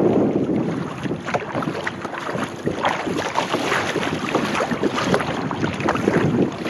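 Sea kayak under way: water splashing and lapping around the hull with the paddle strokes, and wind rumbling on the microphone.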